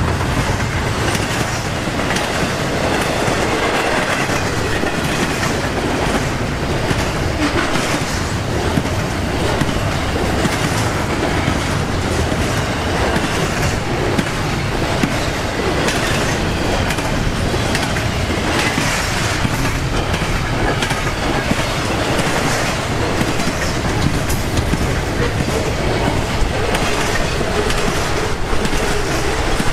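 Freight train rolling past: a steady rumble of railcars on the track, with scattered clicks of wheels crossing rail joints.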